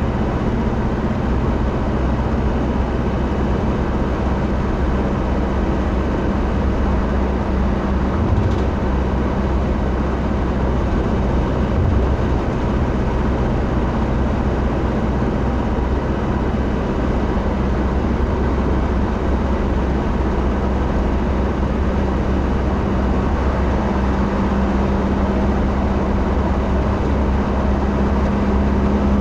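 Steady running noise of a moving vehicle, engine drone and road noise, with a low hum that grows a little stronger in the last few seconds.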